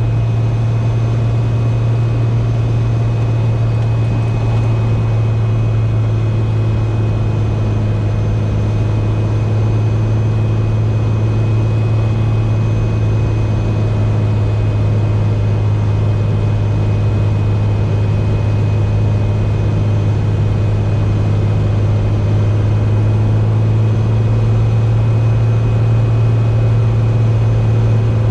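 Cessna 210K's piston engine and propeller droning steadily, heard from inside the cabin during the approach to land, growing slightly louder toward the end.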